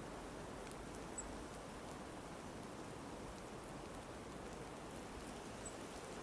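Goldcrest giving two faint, very high, thin calls, about a second in and again near the end, over a steady soft hiss with a few tiny ticks.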